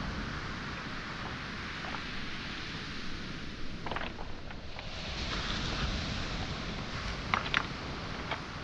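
Footsteps on a pebble and small-boulder shore, with stones clacking sharply a few times, the loudest pair near the end, over the steady rush of waves on the shoreline.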